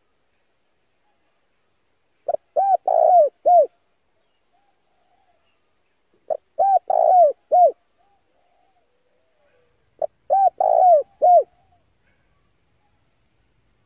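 Male spotted dove calling: three cooing phrases about four seconds apart, each a quick run of four or five arching notes.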